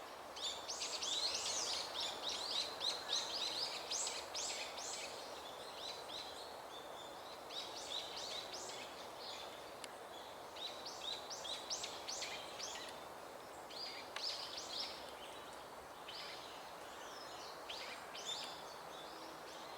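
Small birds chirping and twittering: clusters of many short, quick high notes that come and go, over a faint steady background hiss.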